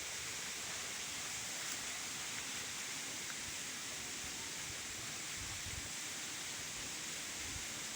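Steady rushing of a forest creek and waterfall, an even hiss of flowing water. A few soft low thumps come in during the second half.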